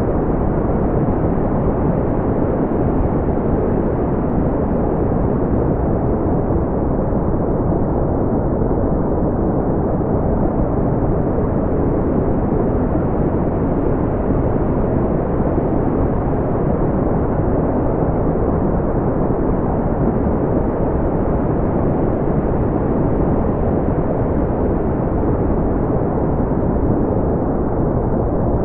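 Steady brown noise: an even, deep rushing hiss weighted toward the low end and softened in the highs, unchanging throughout.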